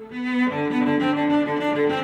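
Background music of bowed strings, cello and violin, playing a melody of held notes.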